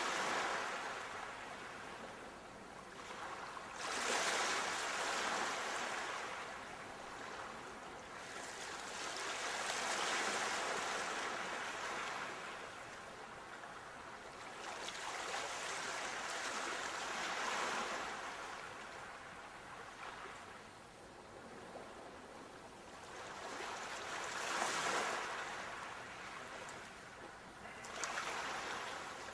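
Sea waves washing onto a shore, swelling and ebbing every few seconds with a hissing rush as each wave breaks and draws back.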